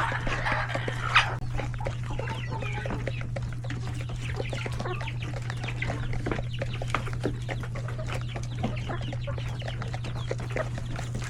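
A flock of chickens and chicks clucking and cheeping with many short calls over a steady low hum, and one sharp knock about a second in.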